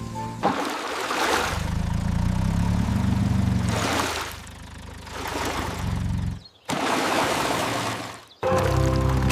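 Cartoon sound effect of a car engine running with a low rumble. It cuts out abruptly twice near the end.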